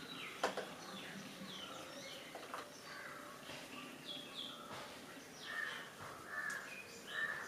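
Small birds chirping and calling throughout, in short repeated chirps and quick falling notes, with one sharp click about half a second in.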